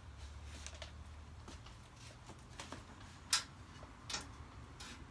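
Scattered light clicks and taps from handling packaging and parts, with one sharper click about three seconds in, over a low steady hum.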